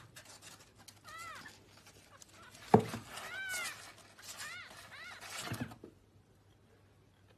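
A cat meowing about four times in short calls that rise and then fall in pitch, with a sharp thump just under three seconds in; the sound cuts off about six seconds in.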